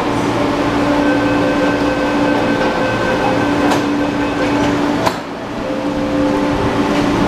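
MTR East Rail Line MLR electric train standing at the platform with a steady hum. Its doors shut partway through, with two sharp knocks about a second and a half apart.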